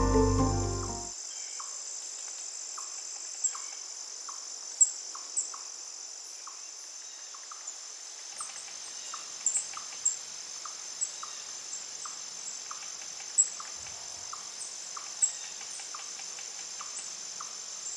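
Background music fades out in the first second, leaving a steady high-pitched chirring like crickets at night. Under it run soft regular ticks about twice a second, with a few sharp clicks.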